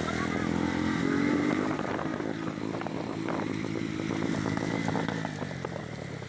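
Honda CB 300 motorcycle engine running under way. It revs up about a second in, holds steady, then eases off near the end.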